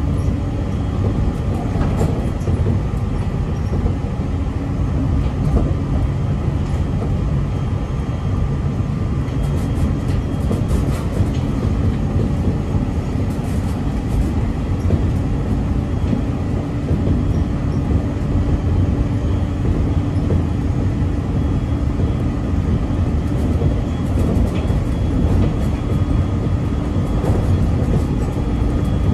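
Running noise inside an Aoimori Railway electric train car under way: a steady rumble of wheels on rail with a faint steady hum.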